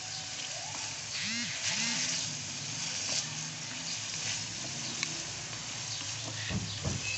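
Chicken pieces sizzling in tomato juices in an aluminium wok as a wooden spatula stirs and scrapes them. There is a steady frying hiss throughout, two short rising-and-falling pitched calls in the first two seconds, and a couple of low knocks of the spatula on the pan near the end.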